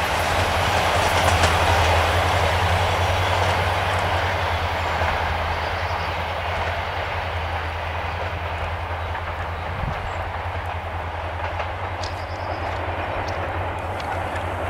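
A diesel-hauled passenger train rolls away over the rails, its wheels clicking over the rail joints above a steady low locomotive drone. The sound slowly fades as the train recedes.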